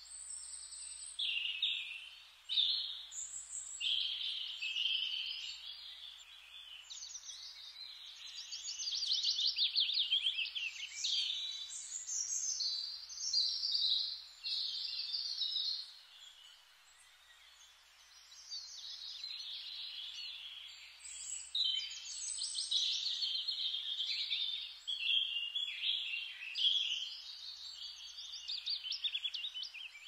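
Songbirds singing, several overlapping songs of rapid trills and chirps, dropping away briefly a little past halfway through before picking up again.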